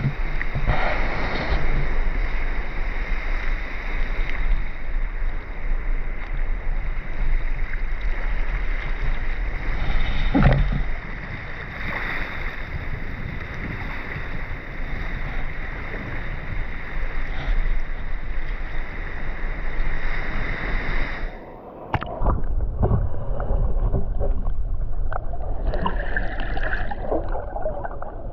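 Underwater ambient sound of sea surge, a muffled rushing and low rumble of water with occasional swells. About 21 seconds in the sound changes abruptly to a thinner, quieter wash.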